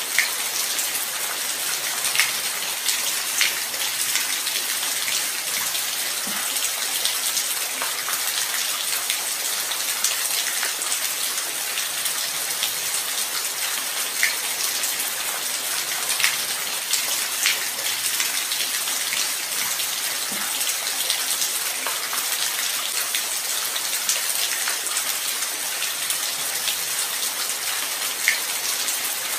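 Steady light rain: an even hiss with scattered close drop impacts ticking sharply now and then.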